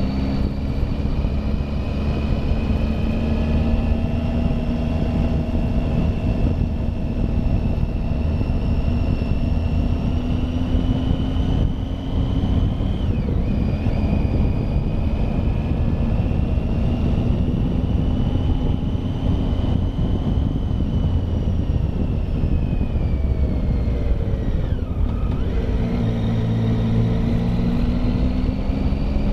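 Triumph Tiger motorcycle engine running under way on a hill climb. Its note climbs slowly, drops suddenly about halfway through, falls away near the end and then picks up again, over a steady low rumble.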